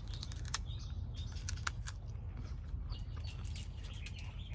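Faint bird chirps over a low steady background hum, with scattered short clicks.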